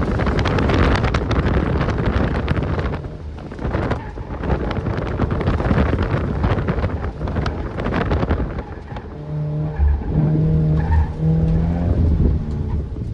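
Heavy wind buffeting on the microphone over a 2013 Scion FR-S's boxer four-cylinder engine and TRD exhaust, driven hard with the revs rising and falling.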